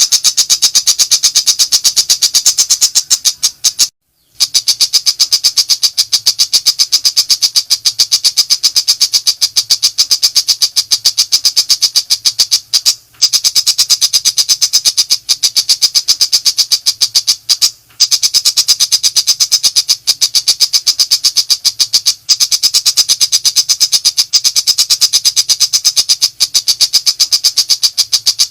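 Tiger shrike giving a fast, continuous chatter of sharp, high notes, breaking off briefly a few times.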